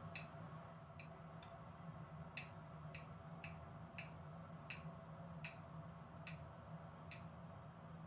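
A series of light, sharp clicks, about eleven in eight seconds and unevenly spaced, over a faint steady low hum.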